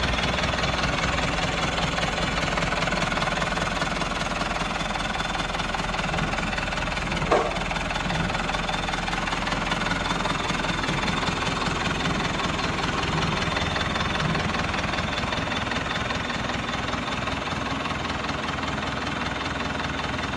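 Engine running steadily at idle with a fast, even chug, tractor-like; a brief short tone cuts in about seven seconds in.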